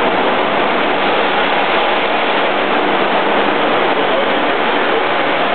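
A 1984 Honda Accord's four-cylinder engine running on a chassis dynamometer, heard as a loud, steady rushing noise with no rise in pitch.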